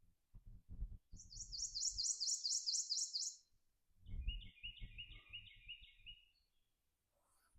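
A songbird singing: a fast run of about ten high, repeated, down-slurred notes, then after a short pause a lower run of about six notes. Low rumbling knocks sit underneath.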